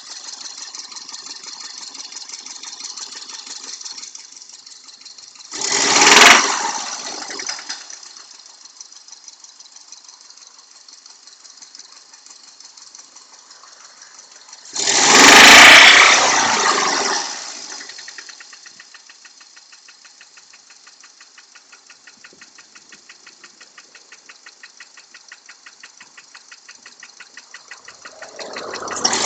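Subaru flat-four boxer engine idling with a fast, rapid knock, blipped up in revs three times: briefly about six seconds in, longer at about fifteen seconds, and again near the end. The owner calls the knock intermittent.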